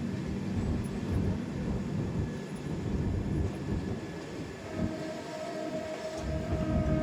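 Passenger train arriving: a steady low rumble of the locomotive and coaches. About two-thirds of the way through, a long, steady horn note comes in and holds.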